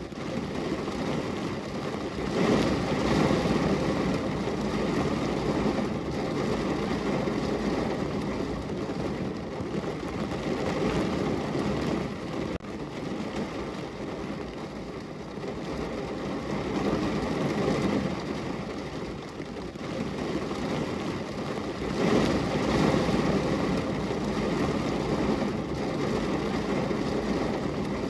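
Steady rain, a dense hiss of drops pattering on a window. It swells louder about two seconds in and again about twenty-two seconds in.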